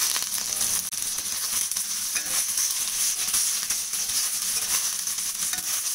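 Chicken pieces and sliced onions sizzling in hot mustard oil in a stainless steel wok, being sautéed. The spatula stirs them with a scatter of scrapes and clicks against the pan.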